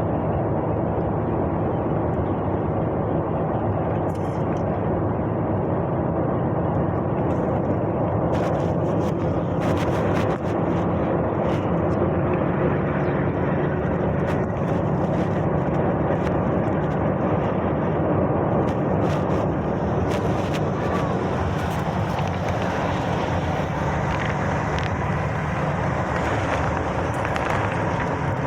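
Truck engine running steadily under way, with a constant drone and road noise, and a few short clicks or rattles near the middle.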